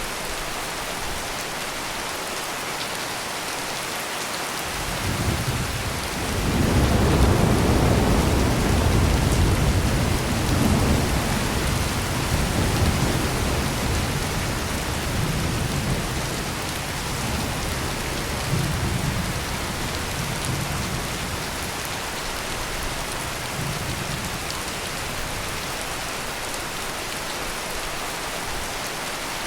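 Steady heavy rain with a peal of rolling thunder: the rumble builds about five seconds in, is loudest a couple of seconds later and slowly dies away over the next fifteen seconds or so while the rain keeps falling.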